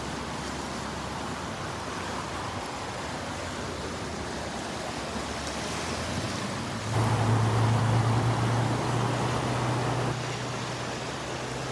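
Fast-flowing mountain creek rushing steadily over rocks. About seven seconds in, a louder low rumble comes in suddenly and eases off a few seconds later.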